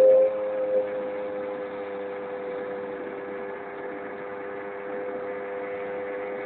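Keeway Hurricane scooter engine running steadily at an even pitch, with a brief louder knock right at the start and a smaller one just under a second in.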